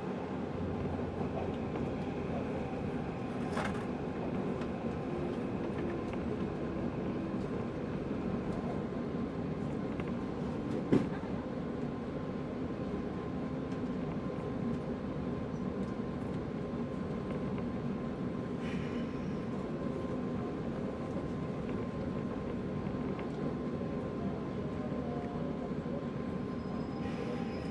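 Interior running noise of a JR 185 series electric train under way, a steady rumble, with a single sharp click about eleven seconds in.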